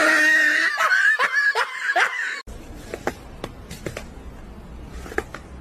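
A person laughing in short, repeated falling bursts, then a sudden cut about two and a half seconds in to quieter room sound with a few faint clicks.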